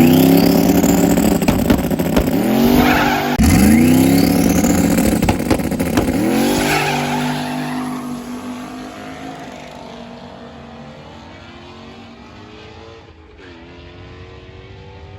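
Twin-turbo 5.3-liter LS V8 accelerating hard on a drag-strip pass, its pitch climbing through the gears with upshifts about three and six and a half seconds in. The sound then fades away over a few seconds.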